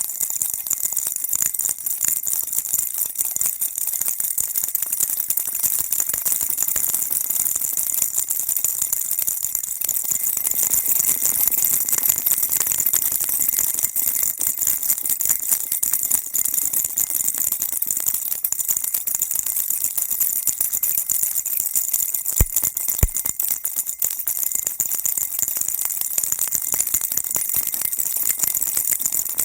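A baby rattle shaken continuously, making a dense, steady high-pitched jingling. Two sharper clicks stand out a little after two-thirds of the way through.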